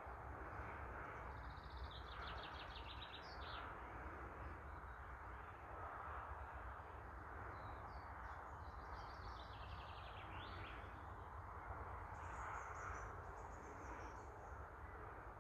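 Birds singing over steady low outdoor background noise. Two rapid trilled phrases come about two seconds in and again around the middle, and a higher run of notes comes near the end.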